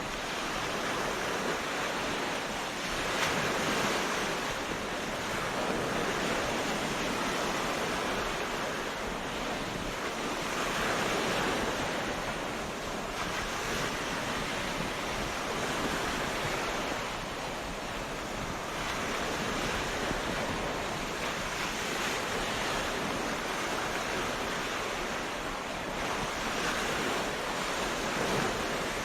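Ocean surf: waves breaking and washing up a beach in a continuous rush that swells and eases every few seconds.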